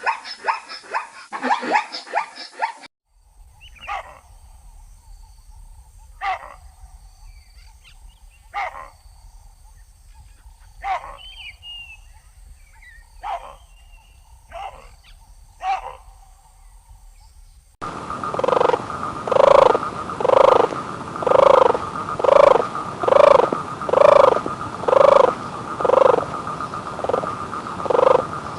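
A string of animal calls in three parts. First comes a quick run of calls. Then single calls come about every two and a half seconds over a faint low hum. From a little past the middle, loud calls repeat about twice a second over a steady high tone.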